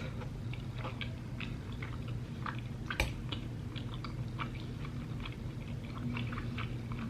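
Close-up chewing of food: irregular wet, clicky mouth sounds, with one sharper click about three seconds in.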